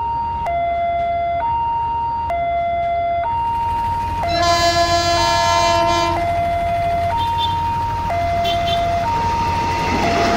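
A two-tone hi-lo siren alternating between two pitches about once a second, with a train horn sounding for about two seconds partway through, over a steady low rumble.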